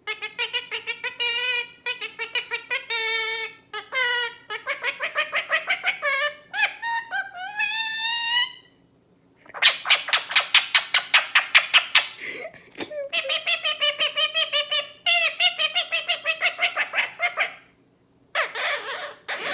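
A bird calling in a long series of pitched, warbling calls. About ten seconds in comes a quick run of short notes, roughly six a second.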